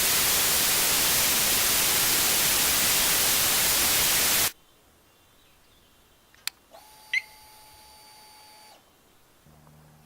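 Loud white-noise static hiss that cuts off suddenly about four and a half seconds in. Faint sounds follow: a sharp click, a faint electronic tone with a short chirp lasting about two seconds, and then a low steady hum near the end.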